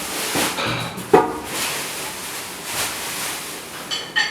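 Knocks and clatter from handling a new microwave oven and its parts during unpacking: a sharp knock about a second in, and a short ringing clink near the end.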